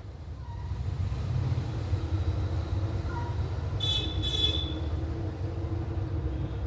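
A parrot gives a short, high-pitched squawk in two quick notes about four seconds in, over a steady low background rumble.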